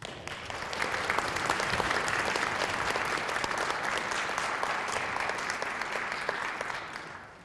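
Audience applauding, swelling over the first second or two, holding steady, then dying away near the end.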